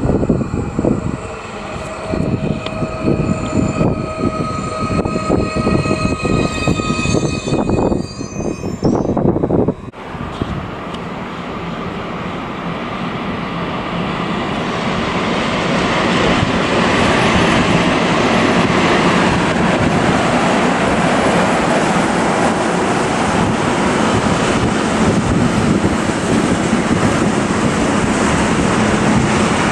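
An electric multiple unit passing, with its traction equipment whining in several steady tones and its wheels clicking over the rails. About ten seconds in this gives way to a long freight train rolling by, its wheel and wagon noise growing louder and then holding steady.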